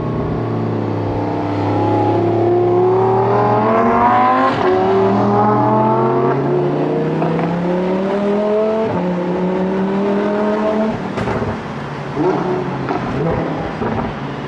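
Lamborghini Huracan V10 with an aftermarket Vivid Racing exhaust accelerating hard, its pitch climbing through the gears with an upshift about four seconds in and another at about nine seconds. It lets off about eleven seconds in, with a few sharp exhaust cracks and pops.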